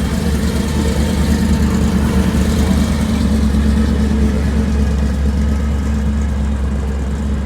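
A car engine running close by, a steady low rumble that swells a little and then eases off.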